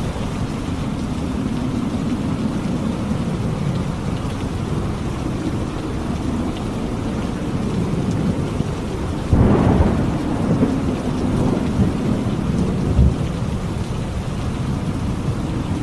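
Thunderstorm: steady heavy rain with low rolling thunder. About nine seconds in comes a louder thunderclap that rumbles on for a few seconds.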